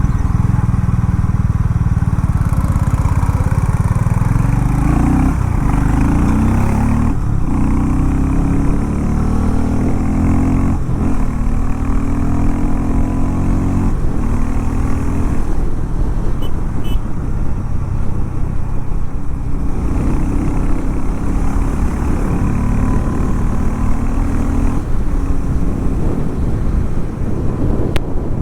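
Harley-Davidson X440 T's single-cylinder engine running under way, the pitch climbing and then dropping sharply a few times as it is ridden through the gears.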